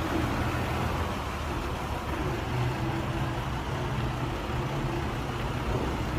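Hyundai dump truck's diesel engine running steadily with a low hum.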